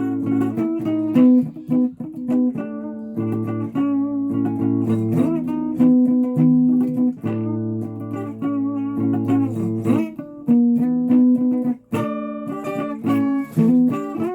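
Guitar being played: picked notes and chords over low bass notes, in a riff that repeats every few seconds.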